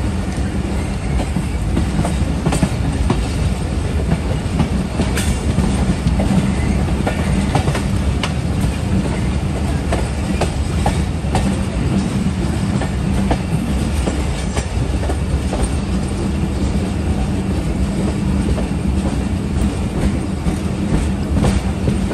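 Passenger train coach running along the track, heard from its open door: a steady low rumble with scattered clicks of the wheels over the rails.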